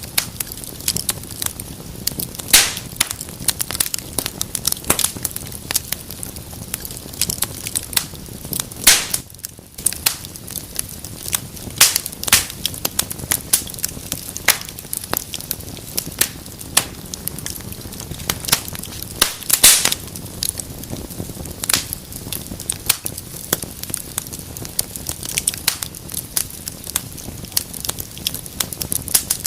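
Wood fire burning in a fireplace, crackling steadily with irregular sharp pops, a few of them louder, over a low rumble of the flames.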